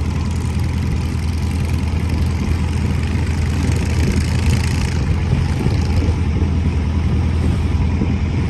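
Motorboat engine running at a steady cruising speed, a continuous low drone with a steady rushing hiss over it.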